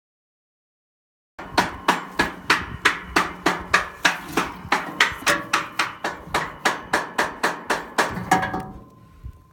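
Hammer blows struck in quick, even succession, about three or four a second, each ringing briefly. They start abruptly about a second and a half in and die away near the end.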